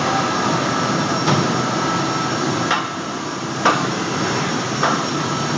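CNC steel beam cutting line running with a steady machine noise, broken by four sharp metallic clanks at uneven intervals, the loudest in the middle.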